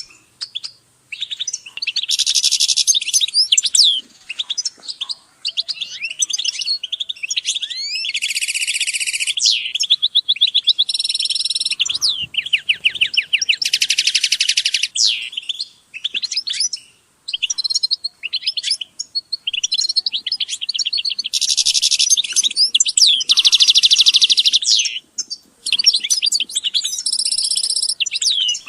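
Several European goldfinches singing and calling together: dense, fast twittering with quick slurred notes and repeated rapid buzzy trills, almost without pause.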